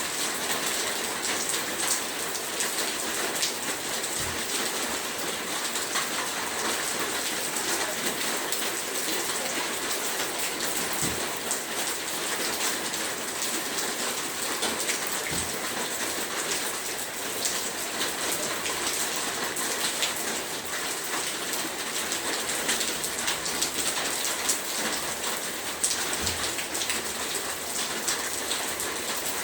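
Heavy rain falling steadily: a dense, even hiss with many individual drops ticking on a surface, and a few faint low thuds now and then.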